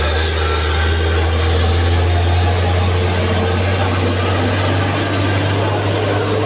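Hino truck's diesel engine running with a loud, steady, low drone that holds even throughout.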